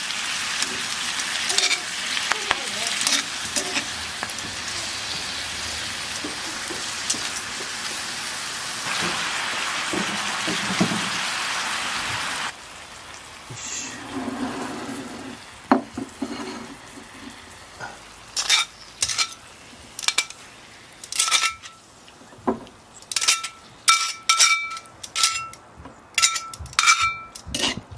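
Liver and garlic chives stir-frying in a pan, a loud steady sizzle with stirring. About twelve seconds in the sizzle cuts off suddenly, and a run of sharp metallic clinks with a ringing note follows: a utensil striking the pan or a dish.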